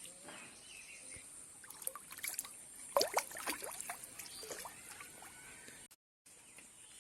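Water splashing and trickling in a cluster of sharp sloshes a couple of seconds in, over a steady high-pitched insect drone; the sound cuts out briefly about six seconds in.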